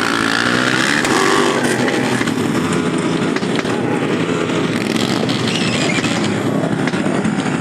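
Motorcycle engine running, its pitch shifting up and down in the first second or so, then holding steady.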